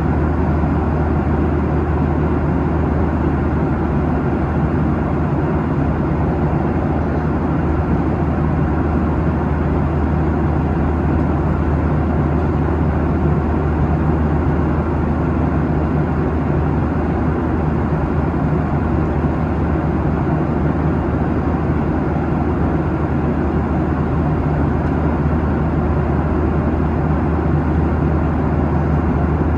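Steady cabin noise of a Boeing 737-800 at cruise, heard from inside the passenger cabin: an even rush of airflow over the fuselage with a low, unchanging hum from its CFM56-7B turbofan engines.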